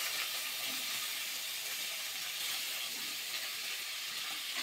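Cauliflower florets frying in hot mustard oil in a kadai, a steady sizzling hiss as more florets are laid into the pan.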